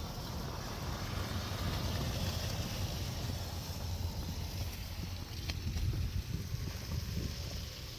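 Wind buffeting the microphone, a dense low rumble under a steady rushing hiss that swells slightly in the first few seconds.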